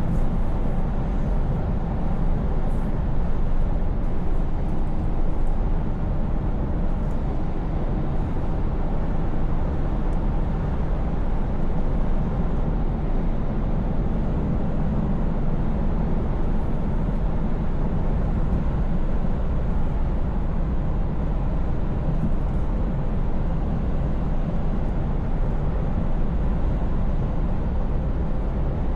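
Scania V8 truck cruising at a steady speed: a low, even drone of engine and road noise that stays steady throughout.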